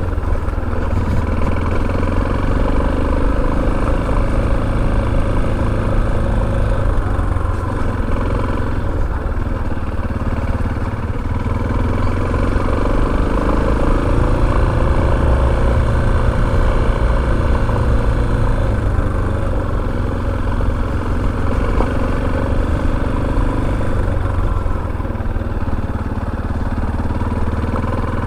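Motorcycle engine running steadily at a fairly even pitch.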